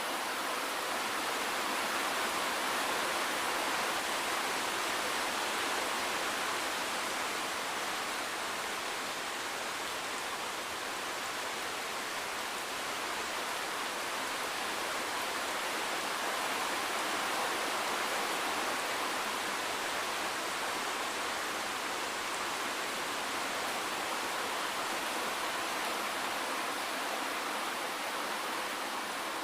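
Steady rain falling, an even hiss with little low rumble and no separate drops standing out.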